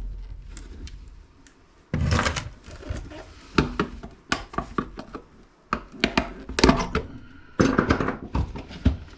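Plastic housing of an electric can opener being handled and worked at with tools, looking for a way in: a string of irregular knocks and clicks, with clattering bursts about two seconds in and again near the end.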